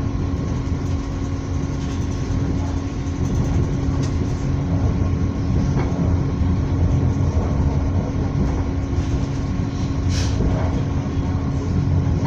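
A moving train heard from inside the carriage: a steady low rumble with a constant hum running under it, and one brief sharp click about ten seconds in.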